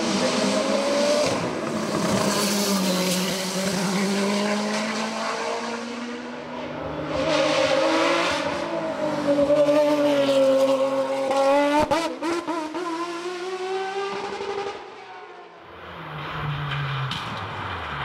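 Racing car engine at full throttle, its pitch climbing and dropping repeatedly with the gear changes as the car passes, then fading about fifteen seconds in. A lower engine note follows near the end.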